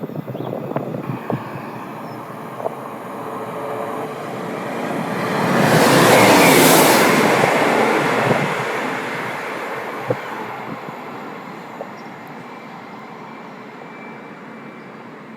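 A passenger train passes through the station at speed: its noise builds over a few seconds, peaks loudly for a couple of seconds with a strong hiss, then fades away.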